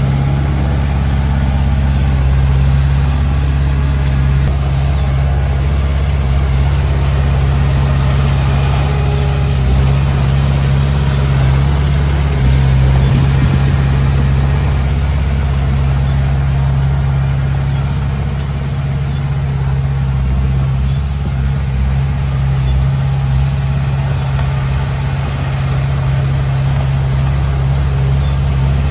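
Diesel engine of a Komatsu D20P bulldozer running steadily at a constant speed while it works stone fill, a low, even hum with only slight changes in level.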